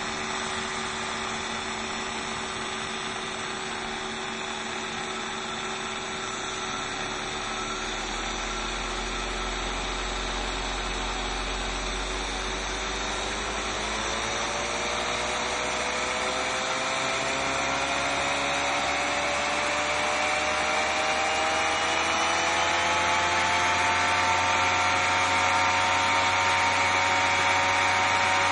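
Bosch 120A car alternator run as a brushless motor from a hobby ESC, its electric whine with several tones rising smoothly in pitch as it speeds up from about six seconds in, then holding steady at a higher speed for the last few seconds.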